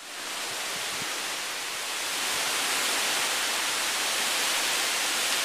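Steady hiss of falling rain, fading in at the start and swelling slightly about two seconds in.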